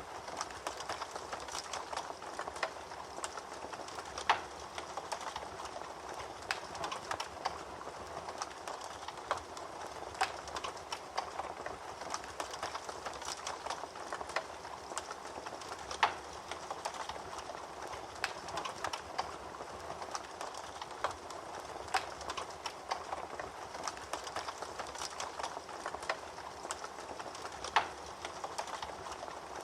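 Wood fire crackling in a fireplace: a steady low hiss with constant small irregular crackles and an occasional sharper, louder pop.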